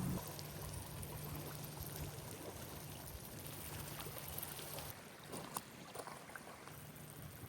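Low steady hum of a motorboat engine out on the lake, fading away about five seconds in, with a few faint clicks over it.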